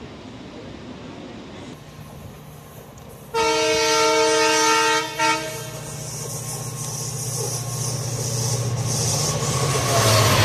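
Train horn sounding one long blast of about a second and a half, then a brief second toot. It is followed by the rumble and clatter of a train running on the rails, growing steadily louder.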